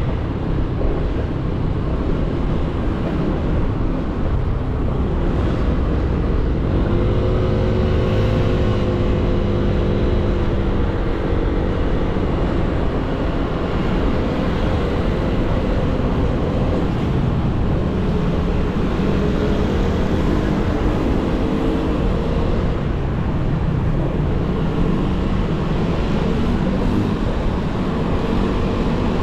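Motorcycle on the move, with its engine running and mixed with low wind and road rumble. The engine note shifts up and down several times as the speed changes.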